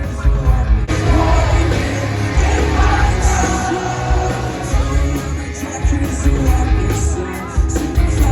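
Live rock band playing loudly, with heavy drums and bass under a singing voice, recorded on a phone from the crowd.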